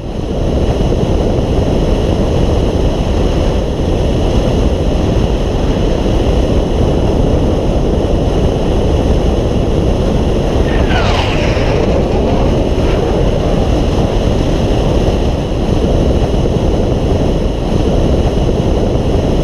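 Steady road and wind noise of a car driving at speed. About eleven seconds in, a short sweep falls in pitch over about a second.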